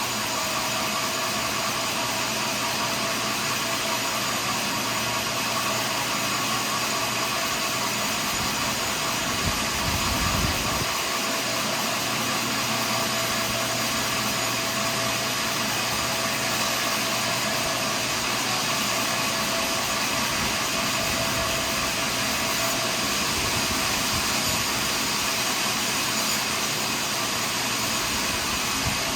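Portable sawmill running steadily as it saws through a large pine log, with a brief low rumble about ten seconds in.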